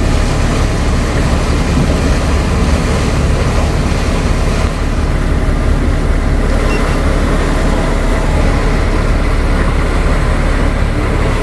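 A motorboat's engines running steadily at cruising speed, a low drone under a steady rush of wind and water.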